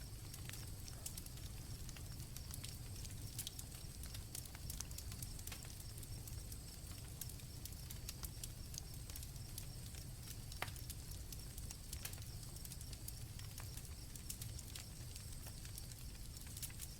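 Campfire crackling with irregular sharp pops over a low rumble of the fire, and crickets trilling steadily in the background.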